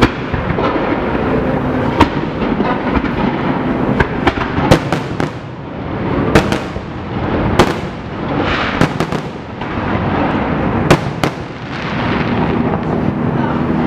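Fireworks display going off: a string of sharp bangs and cracks, bunched in quick runs, over a continuous rumble and crackle from many shells bursting.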